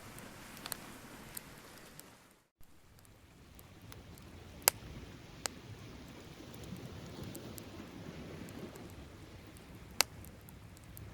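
Beach bonfire crackling, with a handful of sharp wood pops, the loudest about halfway through and near the end, over a steady rushing background. The sound drops out briefly about two and a half seconds in.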